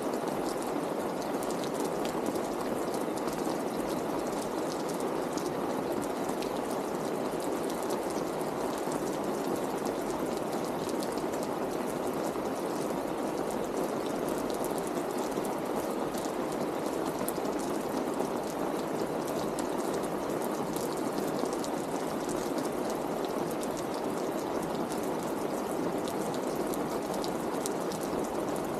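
Steady rain falling on a wet street, a dense even hiss with many small drop ticks close by.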